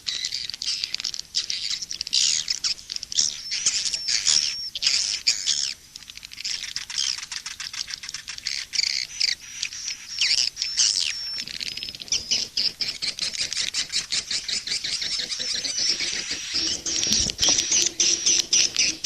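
Recorded swiftlet calls of the kind played to lure swiftlets to a nest house: dense, overlapping high twittering chirps, which in the second half run together into a fast, buzzing trill. A faint low hum joins near the end.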